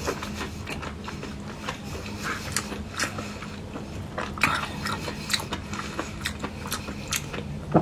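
Close-miked biting and chewing of food, with many short, crisp clicks and crunches scattered throughout.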